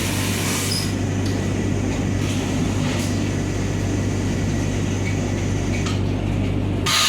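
Steady hum and rumble inside a coach of a Vande Bharat train, with a brighter hiss coming in right at the end.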